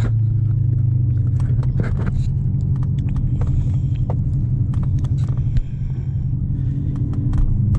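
Straight-piped 2014 Corvette C7 Stingray's 6.2-litre LT1 V8 droning steadily at a low cruise in touring mode, heard from inside the car, with scattered light clicks. The engine note dips slightly a little past halfway.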